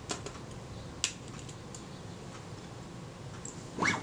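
Small hand tools clicking against the camera's metal parts as a screw is fitted, with a short rising squeak near the end.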